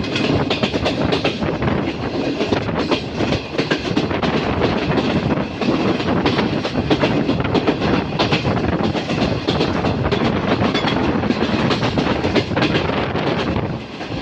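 Train wheels rolling over the rails, a steady rumble with a dense, irregular clatter of clicks from the track, easing briefly near the end.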